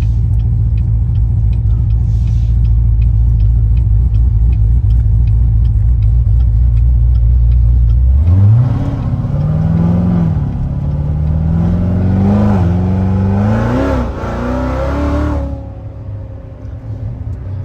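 Supercharged LT4 V8 of a C7 Corvette Z06 with a BTR stage 2 camshaft, running at a steady low drone, then about eight seconds in going to full throttle: the revs climb, drop back at three quick upshifts and climb again, before the throttle is lifted near the end.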